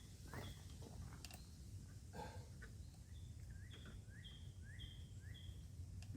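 A bird calling faintly over a low background hum: short repeated calls, each a quick rising slur into a higher note, with a run of four at about two a second in the second half.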